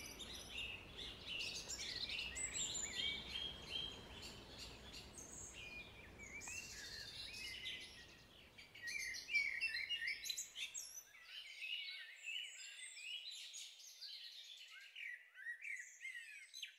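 Several birds singing and chirping, their calls overlapping, over a low background rumble that stops about two-thirds of the way through; the birdsong then thins out and fades away.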